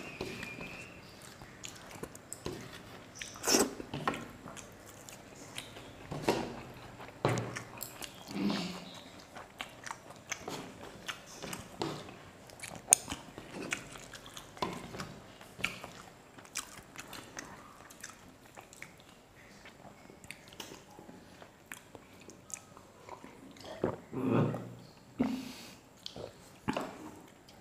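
Chewing and mouth noises of people eating rice, dal and fried fish by hand, with scattered small clicks and brief louder bursts, the loudest a little before the end.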